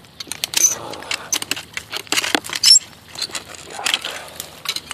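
Glass and rubble clinking and scraping as dump debris is dug through, with many short knocks and a loud clink a little past the middle.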